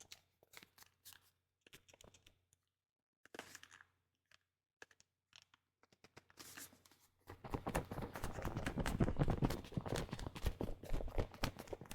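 Close-miked crackling and crinkling handling noise: a few scattered faint taps, then dense crackling for about four seconds starting about seven seconds in.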